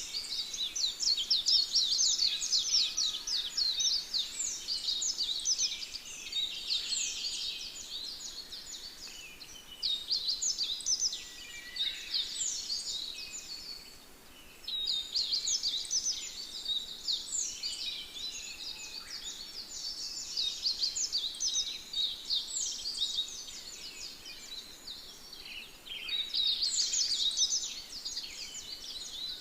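Budgerigar warbling: long runs of rapid, high chirps and squeaks, broken by a few short pauses.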